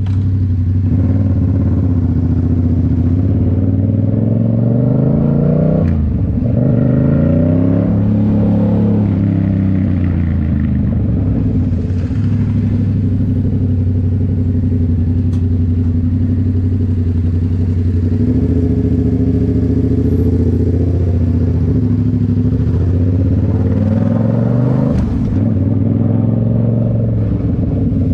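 Yamaha MT-07's 689 cc parallel-twin engine through a Toce full exhaust, ridden on the road. The engine note climbs under acceleration and drops sharply at gear changes, about six seconds in and again near the end, with steady cruising stretches between.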